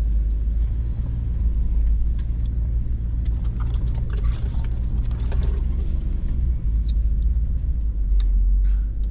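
Hummer H2's V8 engine running steadily at a low, even pitch, heard from inside the cab, with scattered light clicks and ticks.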